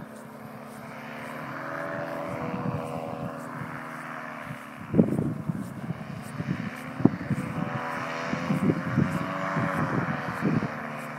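Aerochute powered parachute's engine and propeller droning, the pitch wavering gently up and down. From about five seconds in, gusty wind buffets the microphone.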